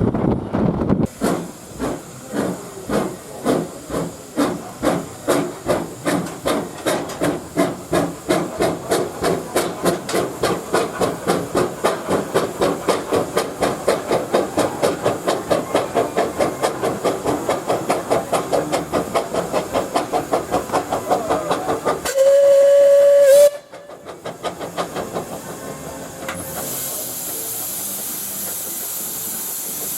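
Steam locomotive pulling away, its exhaust chuffs quickening steadily. After about twenty seconds comes a short blast on the steam whistle, the loudest sound, followed near the end by a steady hiss of steam.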